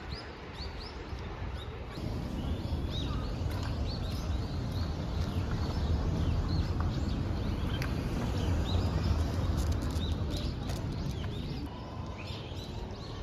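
Small birds chirping repeatedly, short rising and falling calls, over a heavy low rumble of noise that grows about two seconds in and eases near the end.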